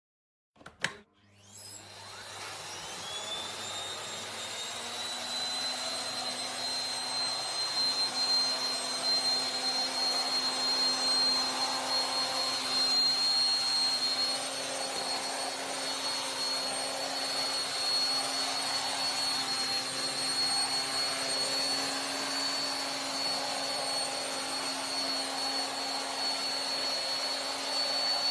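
An AEG VX6-2-ÖKOX 800-watt bagged vacuum cleaner is switched on with a click about a second in. Its motor whine rises in pitch over the next couple of seconds as it spins up, then it runs steadily.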